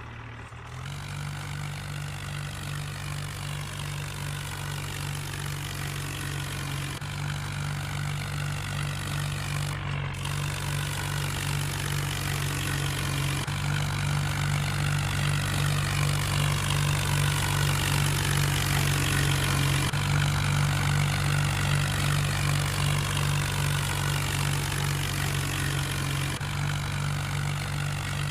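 Tractor diesel engine running steadily and hard while pulling a super seeder. The sound builds gradually through the first half and eases a little near the end.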